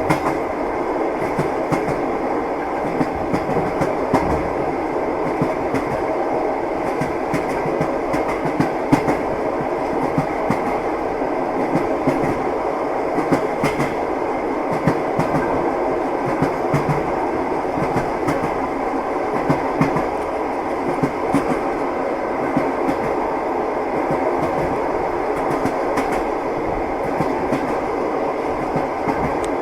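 Passenger train wheels knocking over the rails, with clickety-clack at uneven intervals over a steady rolling rumble, heard from inside a moving carriage.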